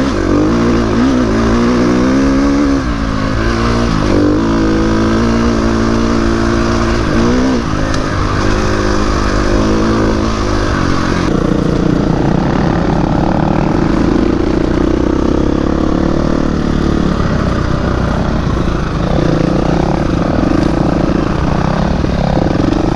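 Dirt bike engine being ridden hard on a trail, its pitch rising and falling as the throttle is opened and closed. About halfway through, the sound turns rougher and steadier.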